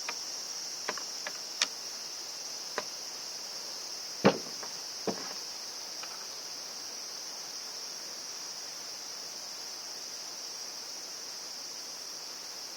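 Crickets chirring steadily in the background. A handful of sharp clicks and knocks sound in the first five seconds, the loudest about four seconds in, from parts being handled and fitted together.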